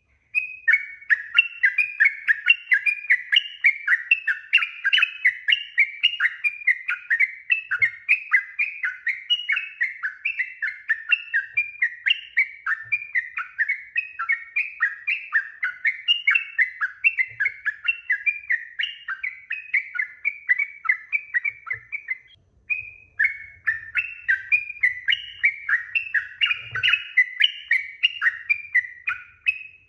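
Sooty-headed bulbul (trucuk) singing a long, unbroken run of quick slurred whistled notes, about two or three a second, with a brief pause about two-thirds of the way through.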